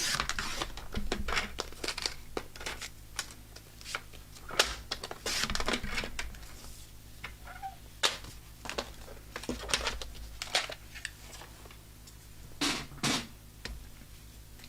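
Cardstock being cut and handled on a paper trimmer: an irregular series of clicks, snaps and paper rustles as the blade is worked and strips are moved.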